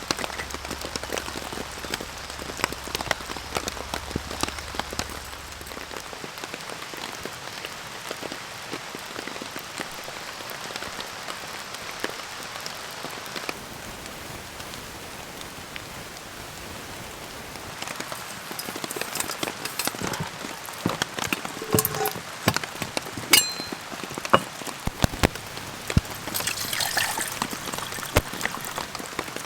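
Steady rain, with many drops pattering on a surface. Over the last ten seconds louder, sharper knocks and clicks come through the rain, one with a short ring.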